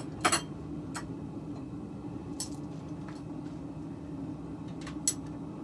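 A few sharp metal clinks, the loudest a double one just after the start, from forging tools and steel being handled. Under them runs a steady low hum, typical of a running forge.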